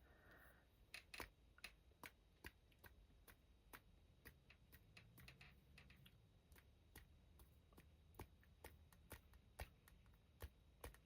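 Faint, sharp, irregular taps, two or three a second: a paintbrush being tapped to splatter bleedproof white paint over a watercolour.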